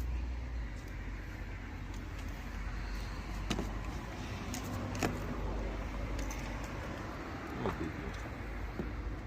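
A few light clicks and taps of the oil filter housing cap and its new seal being handled while the seal is oiled, over a steady low rumble.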